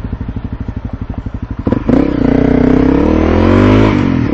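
Motorcycle engine idling with an even pulsing beat, then the throttle opens about two seconds in and it pulls away, the engine note rising; near the end it briefly drops and climbs again, like a gear change.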